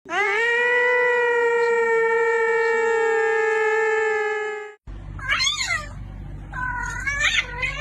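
A cat's long, drawn-out meow, held on one steady pitch for about four and a half seconds and then cut off abruptly, followed by a few shorter, wavering high-pitched calls.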